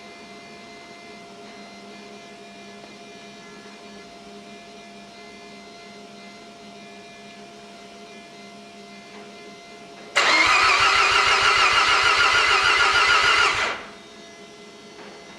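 Mazda RX-7 FC3S's 13B rotary engine being cranked over on the starter for about three and a half seconds, with a fast pulsing beat, then stopping abruptly. Before it, a steady low hum.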